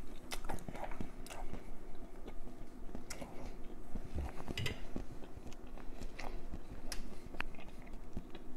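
A person chewing food close to the microphone, with many small, irregular mouth clicks and smacks.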